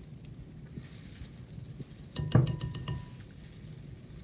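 A kitchen utensil clinking and scraping against a mixing bowl as ingredients are added, a quick run of several clinks with a short ring about two seconds in.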